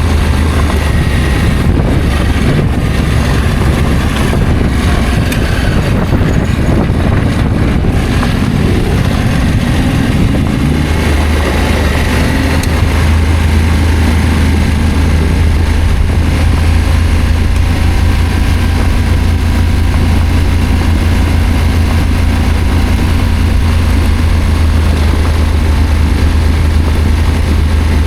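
Adventure motorcycle engine running steadily under way, a loud low drone with a haze of noise over it; the low drone grows stronger about ten seconds in.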